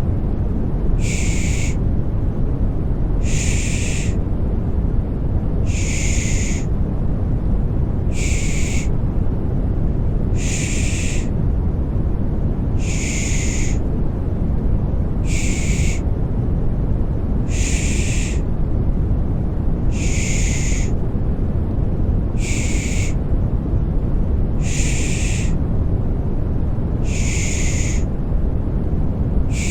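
Rhythmic 'pış pış' shushing for soothing a baby: a hissing 'shh' about every two seconds over a steady, low rushing noise.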